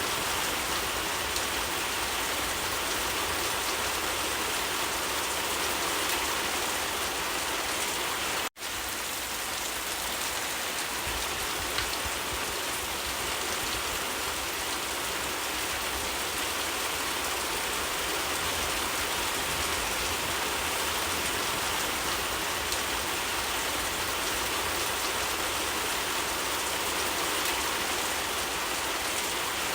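Steady rain falling, an even, unbroken hiss of many drops, which cuts out for an instant about eight seconds in.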